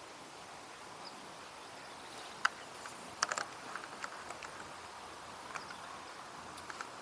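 Faint steady outdoor hiss with a few sharp clicks and ticks: a single click, then a quick cluster of several, then scattered fainter ticks.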